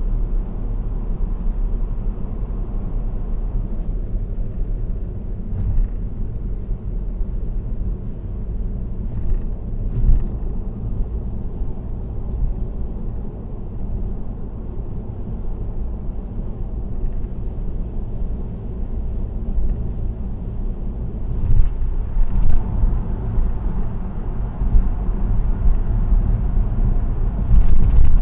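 Steady low rumble of a car's road and tyre noise at expressway speed, with a few short thumps, the loudest near the end.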